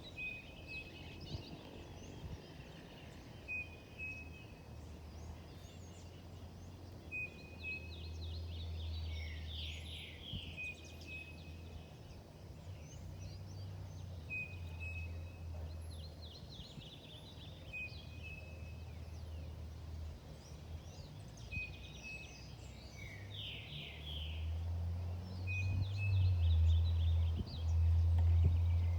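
A songbird singing a repeated phrase, a short steady note with bursts of quick chirps, about every three and a half seconds. A low rumble underneath grows louder near the end.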